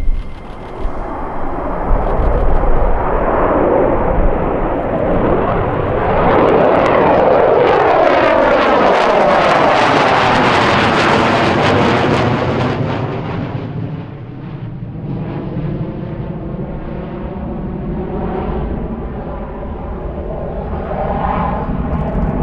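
USAF B-2 Spirit stealth bomber flying past, its four General Electric F118 turbofan engines giving a rushing jet noise. The noise builds to its loudest about halfway through, with a sweeping, phasing sound, then fades to a lower rumble as the bomber moves away.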